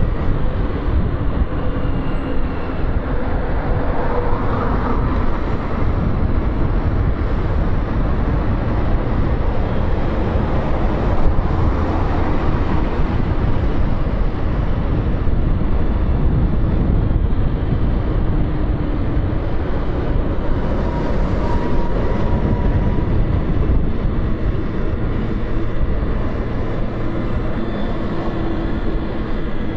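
Motorcycle ridden on city roads: a steady mix of engine and wind rush on the microphone, with the engine note rising briefly a couple of times.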